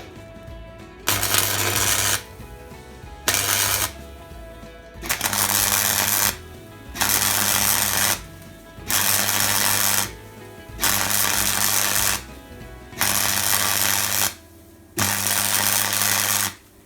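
Electric welding arc crackling in eight short bursts of about one to one and a half seconds each, with a steady hum under each burst. The weld is being laid on a soft, rusted patch of chassis rail steel that keeps blowing through rather than filling.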